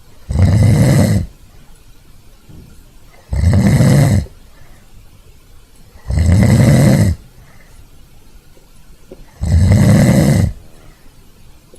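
Pug snoring in its sleep: four loud snores about every three seconds, each lasting about a second, with quiet breathing between them.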